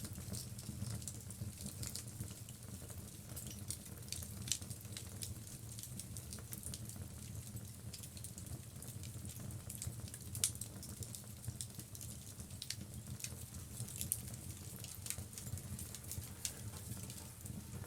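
Wood logs burning in a fireplace: a steady low rumble of the flames with frequent sharp crackles and pops, the loudest pop about ten seconds in.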